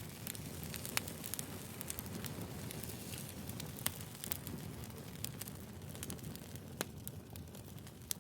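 Firewood burning: a steady low rush of flames with sharp crackles and pops scattered throughout, a few louder pops standing out about a second in, near four seconds and near seven seconds.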